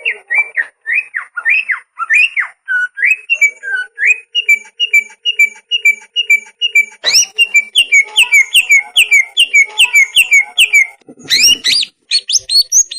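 Cucak ijo (green leafbird) singing in full song: a run of loud, clear whistled notes, each a quick slur up and down, about three a second. After about seven seconds the notes come faster and higher, and there is a brief break near the end before the whistling resumes.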